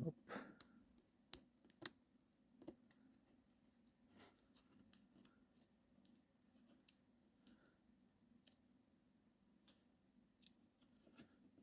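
Faint, scattered small clicks and taps at an irregular pace, with the strongest near the start and at about a second and a half in.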